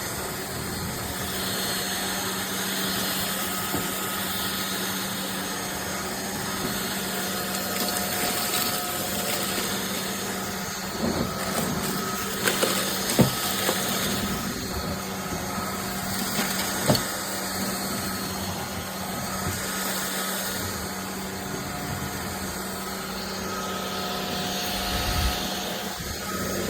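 Iirios 580 W cordless stick vacuum running steadily on a hardwood floor, a constant motor hum and whine with airflow noise. A few sharp clicks come through about halfway in.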